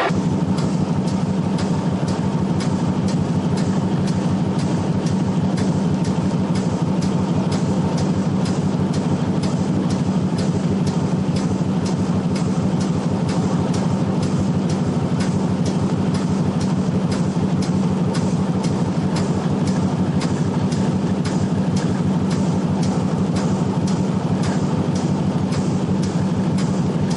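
Freight train running steadily, heard from aboard: a constant low engine drone with a fast, regular ticking through it, about three to four ticks a second.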